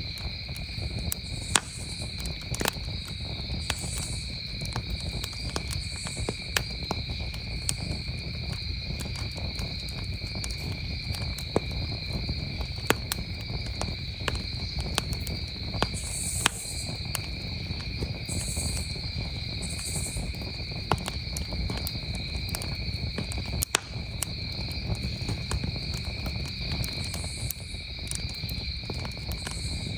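Campfire crackling with irregular sharp pops over a low steady rush, against a continuous chorus of crickets chirring at two steady pitches, with short high buzzes every few seconds.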